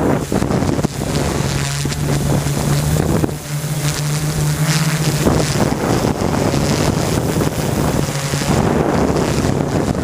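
Small camera drone's propellers humming steadily in flight, with wind buffeting the microphone; the hum lifts slightly in pitch about four seconds in, then settles back.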